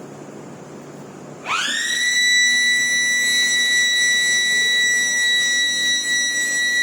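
Electric alarm siren sounding: about a second and a half in, a shrill tone rises quickly to a steady high pitch and holds. Before it there is only a low steady machine hum.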